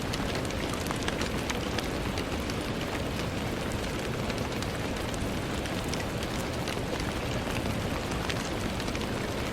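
Steady rain with many small drops ticking against window glass.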